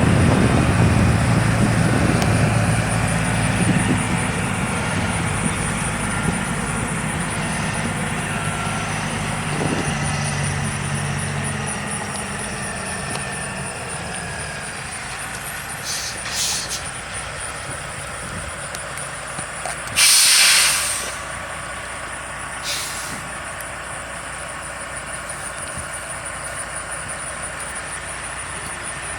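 Delivery truck's engine running, fading away over the first dozen seconds, then a few sharp hisses of released air, the loudest lasting about a second roughly two-thirds of the way in, typical of a truck's air brakes.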